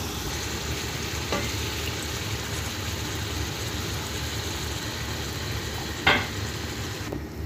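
Mutton mince with diced potatoes and tomato sizzling steadily in hot oil in an aluminium pressure cooker as a cup of water is added and stirred through. One brief sharper sound about six seconds in.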